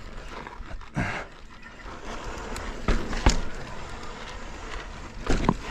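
Mountain bike rolling over slickrock: a steady rush of tyre and wind noise, broken by sharp knocks and rattles of the bike over the rock, the loudest about three seconds in.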